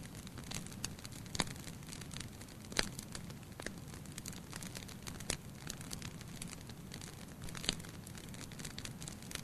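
Fire burning in a fireplace: a steady low rumble of flames with scattered sharp crackles and pops, four louder pops spread through.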